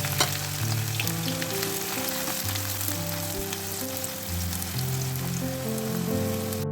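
Sliced onions sizzling and crackling steadily in a kadai of hot refined oil, deep-frying into beresta.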